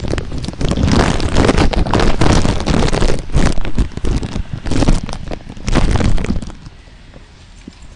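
Loud crackling and rumbling noise on the microphone that stops suddenly about six and a half seconds in, leaving a faint hiss.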